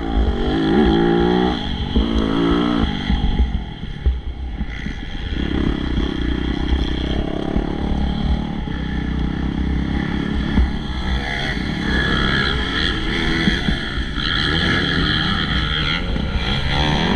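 MX2 motocross bikes racing, their engines revving up and down as they accelerate and pass, with a steady engine drone in between. A heavy low rumble runs underneath throughout.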